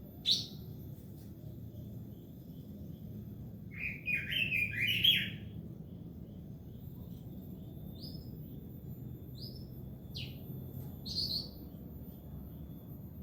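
Pekin robin (red-billed leiothrix) singing: a sharp call at the start, a quick warbled phrase of several notes about four seconds in, then a few short, separate chirps.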